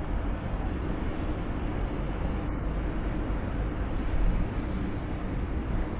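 Steady outdoor city background noise with a low rumble throughout.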